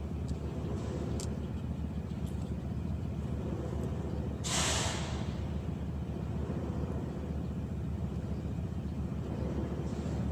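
An engine running steadily with a low rumble, and a short sharp hiss of air or spray about four and a half seconds in.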